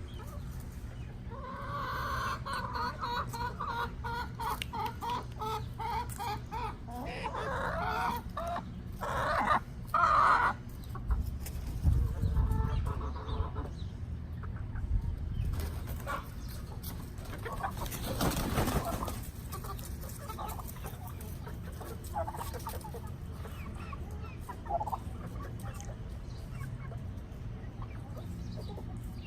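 Chickens clucking, with a run of drawn-out calls early on and louder, sharper calls about eight to ten seconds in. There is also a short noisy burst about eighteen seconds in.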